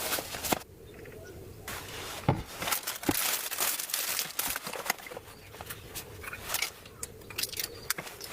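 Irregular crinkling and rustling with scattered sharp clicks, like material being handled.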